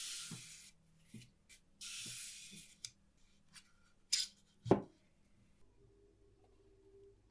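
Hand work on a clock part: two short hissing strokes of rubbing or scraping, a few light clicks, then a sharp knock about two-thirds of the way in. A faint steady hum starts near the end.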